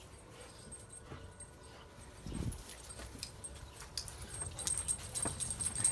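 Dogs playing rough: scattered scuffles and light clicks, with a low thud a little over two seconds in and more scuffling near the end.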